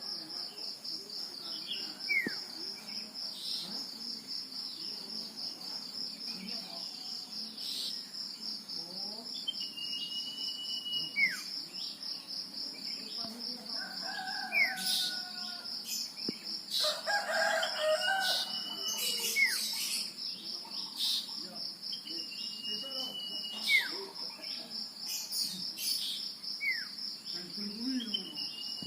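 Male common iora (sirtu/cipoh) calling: drawn-out whistles held level and then dropping at the end, repeated every few seconds between short downward-sliding notes. Beneath it runs a steady pulsing insect drone. About halfway through, another bird gives a louder, lower call.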